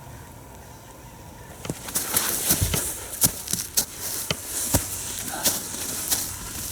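Footsteps crunching in snow, starting about two seconds in: irregular sharp crunches, two or three a second.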